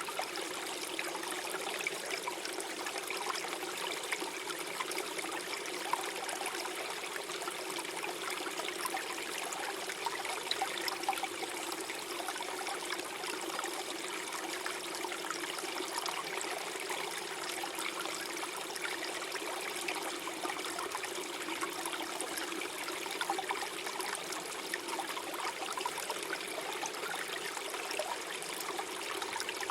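Small forest stream flowing and gurgling, a steady babble of water over stones with many small splashes and trickles.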